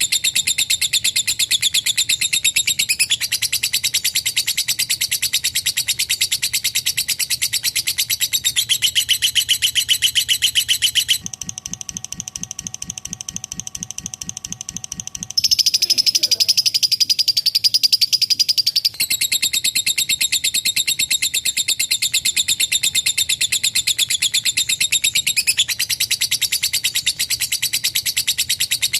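Lovebird's long, rapid chattering trill (ngekek panjang), a continuous high, fast pulsing call. About 11 s in it gives way for some four seconds to a quieter, lower pulsing call, then a shriller call, before the long chatter picks up again.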